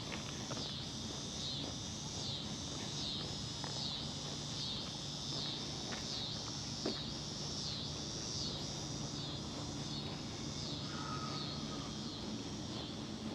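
Cicadas singing in a pulsing, rhythmic song that swells and falls about one and a half times a second and fades near the end, over a low steady hum.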